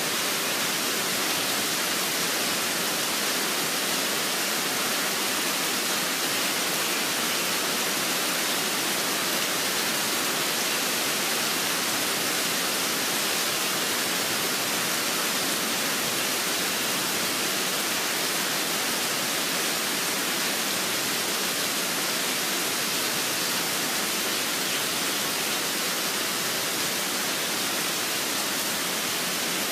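Steady rain falling, an even unbroken hiss with no birdsong standing out.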